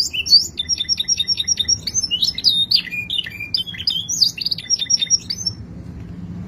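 Domestic canary singing a fast song of rapid trills and repeated high chirps, which stops about five and a half seconds in, over a faint steady low hum.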